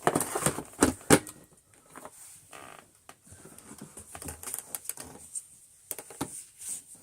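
Dry, crunchy mess being spread and scattered over a carpet for a vacuum test: a dense run of crackles and clicks in the first second and a half, then sparser, irregular clicks.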